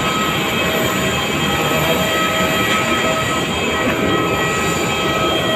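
Jet airliner's turbines running with a loud, steady roar and a constant high-pitched whine, heard close by on the airport apron.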